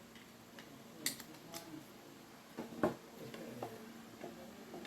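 Scattered sharp clicks and taps of tools and small hard fan parts being handled during repair work, the loudest a little before three seconds in, over a faint steady hum.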